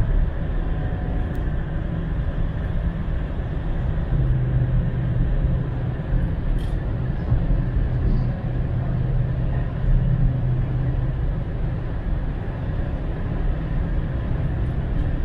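A 2019 Chevrolet Silverado's 6.2-litre V8 running at a steady speed, a constant low drone mixed with tyre and road noise, heard from inside the cab.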